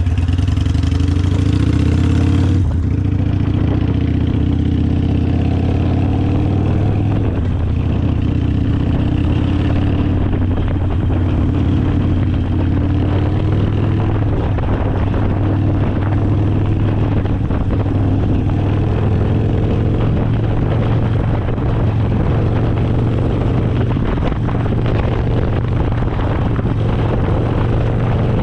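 Harley-Davidson Sportster V-twin running through an aftermarket exhaust, steady and loud, its pitch drifting gently up and down with the throttle.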